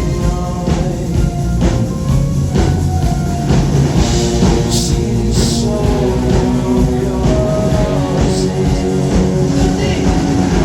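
Live rock music from a massed band of guitars, bass and drum kits playing together, with voices singing along, loud and continuous.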